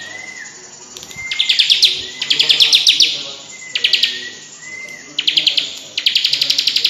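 A ciblek (bar-winged prinia) singing: five fast rattling trills, each up to about a second long, strung between short thin whistled notes. These quick bursts are the bird's 'tembak' song.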